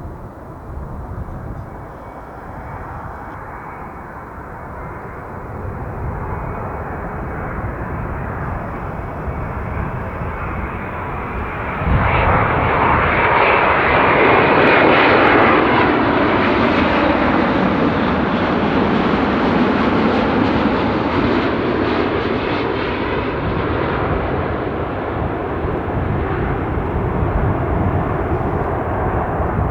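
Boeing 787-9 Dreamliner's jet engines on landing approach, growing louder as it nears, then rising suddenly about twelve seconds in and holding loud as it passes close by with a sweeping rush that slowly eases off.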